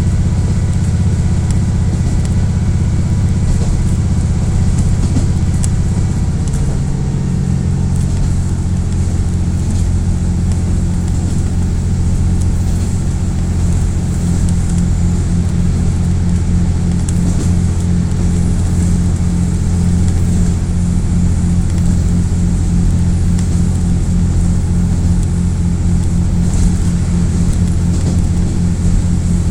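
KiHa 48 diesel railcar's engine running hard under load, heard from inside the car as a steady low drone. The note shifts about seven seconds in and takes on a pulsing beat from about halfway through.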